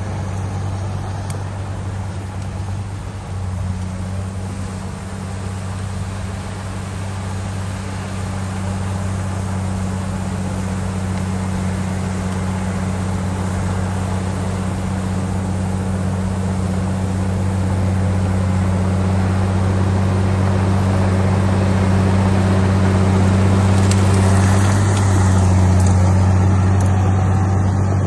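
Diesel engine of a heavy earthmoving machine running steadily, a deep drone that grows gradually louder through the second half.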